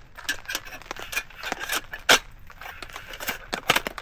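Collapsible camp table's parts clinking and rattling as it is handled and fitted together after falling apart on uneven ground, with irregular light clicks and one sharper knock about two seconds in.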